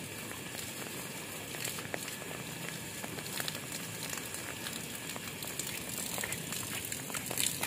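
Steady rain pattering on hard surfaces: a dense, even crackling hiss with scattered sharper drop hits.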